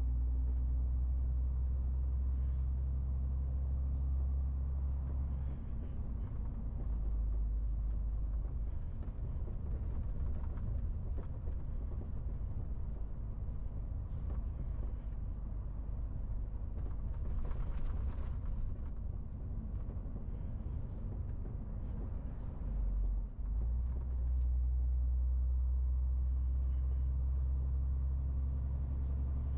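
MAN TGX 18.470 truck's diesel engine and road noise, a continuous low drone that runs steady, turns rough and uneven through the middle, and settles steady again. There is a short hiss a little past halfway and a brief drop in the drone about three-quarters of the way through.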